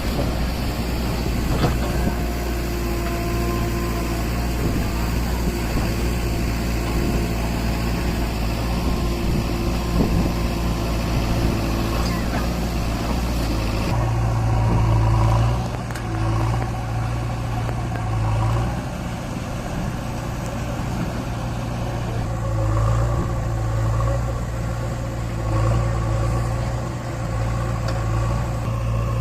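Deutz-Fahr tractor's diesel engine running steadily while hauling a fully loaded trolley, a constant low hum that grows heavier about halfway through.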